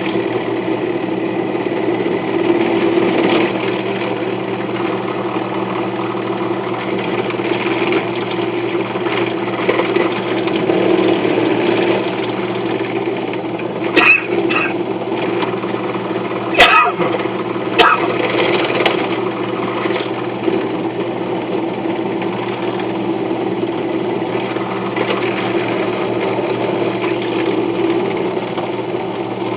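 A power tool running steadily as a brass piece is worked on it, with a few sharp clicks a little past halfway.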